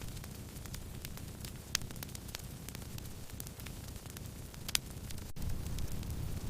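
Wood fire crackling: scattered sharp snaps and pops, two of them louder, over a steady low rush of burning logs.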